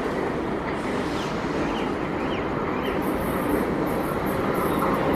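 Electric locomotive hauling a container freight train as it approaches: a steady rumble of wheels on rail, growing slowly louder.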